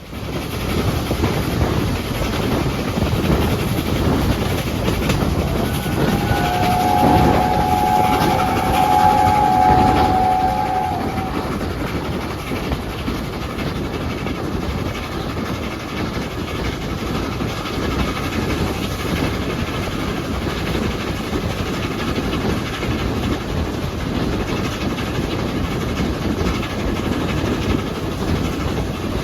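Double-headed steam train, hauled by Peppercorn A1 Pacific No. 60163 Tornado and LB&SCR H2 Atlantic No. 32424 Beachy Head, running with a steady, heavy rumble. A locomotive's steam whistle sounds one held note for about five seconds, starting about six seconds in.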